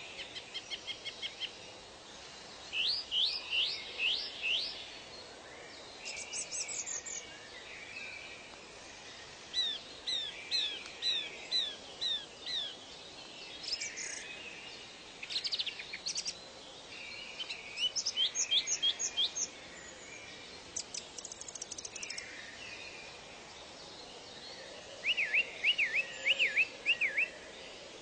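Songbirds singing in short phrases of quick, high, sweeping notes, a new phrase every few seconds, over a steady background hiss.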